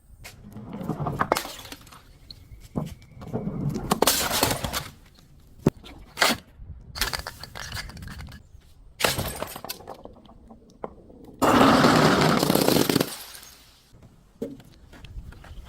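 Objects being crushed and broken: a series of sharp cracks and crunching, with a louder, longer crunch of about two seconds near the end.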